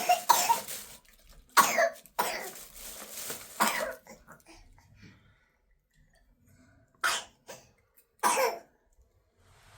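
A person coughing: a run of harsh coughs, a pause of about three seconds, then a few more coughs.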